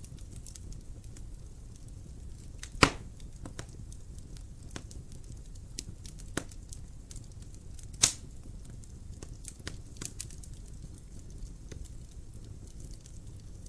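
Wood fire crackling in a fireplace: scattered small snaps over a low steady rumble, with two loud pops about three seconds and eight seconds in.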